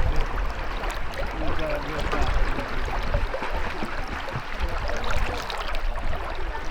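Steady rushing of flowing river water, with a low rumble underneath and faint distant voices.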